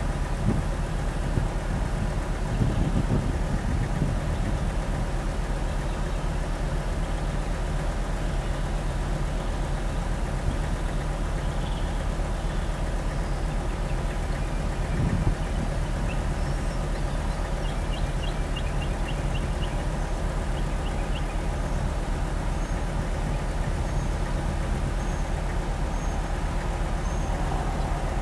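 Semi truck's diesel engine running steadily at low speed while the truck backs up, with a short louder low rumble about halfway through.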